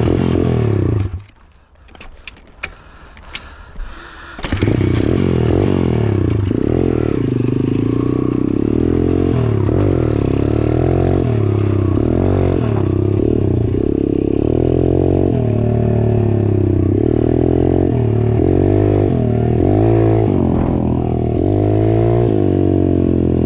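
Dirt bike engine being ridden along a trail, its pitch rising and falling with the throttle. After a loud first second it drops back, with a few clicks and knocks, then picks up again about four and a half seconds in and keeps running hard.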